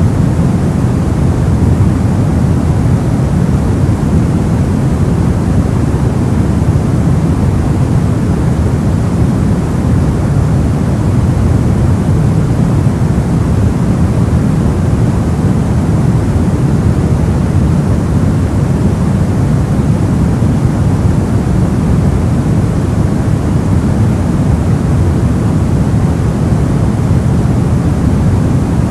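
Steady, unchanging soft noise made for sleep, heavy in the low end with the highs rolled off, giving a deep, even rush with no events in it.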